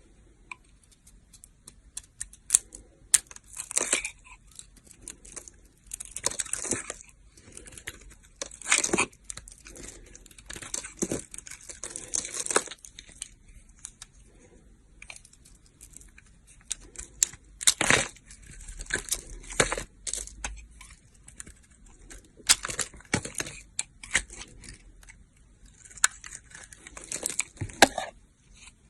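Knife cutting dry soap: crisp crunching and crackling strokes with sharp clicks, in bursts of a second or two with short pauses between.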